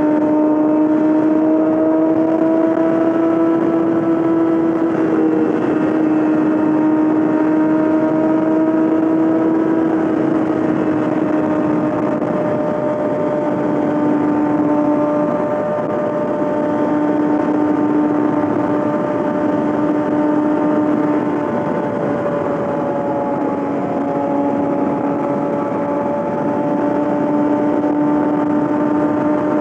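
A 2020 Yamaha R6's inline-four engine running through a full M4 exhaust at a steady high-revving cruise. The note holds fairly level, with small dips in pitch.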